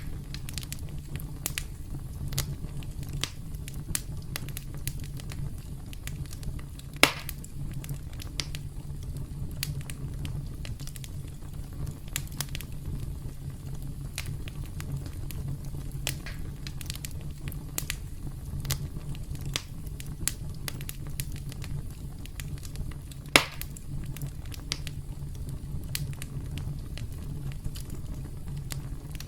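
Campfire burning with a steady low rumble and constant small crackles, and two louder wood pops, about seven seconds in and near the twenty-third second.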